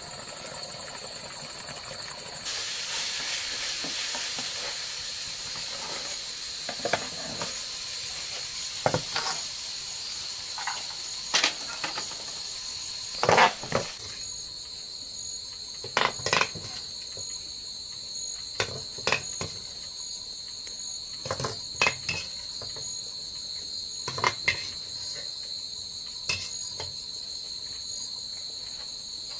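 Crickets chirring in a steady, high, continuous trill. For the first half a sizzling hiss, typical of frying in a wok, runs over it and stops about halfway through, with scattered short clinks and knocks of kitchen utensils.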